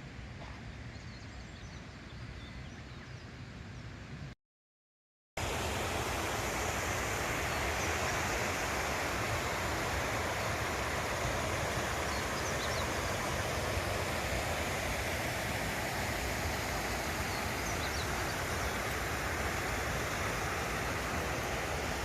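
Steady rush of running water, like a mountain stream or waterfall. The sound drops out completely for about a second some four seconds in, then comes back louder.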